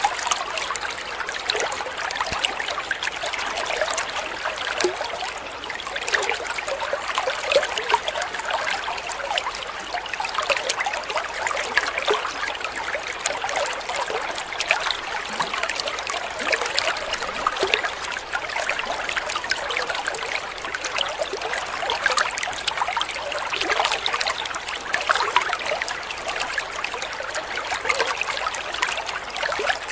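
Water trickling and babbling in a small stream, a steady splashy patter.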